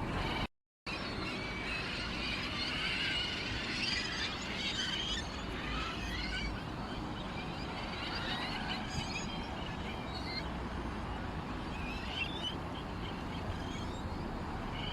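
A flock of sparrows chirping and twittering continuously, many short overlapping calls over a steady low background rumble. The audio drops out completely for a moment about half a second in.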